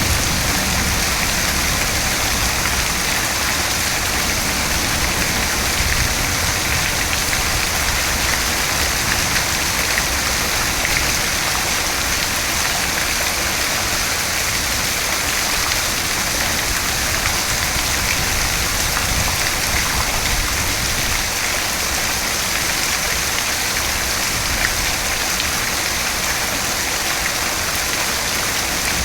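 Steady rain falling, an even hiss of drops on surfaces that hardly changes in level.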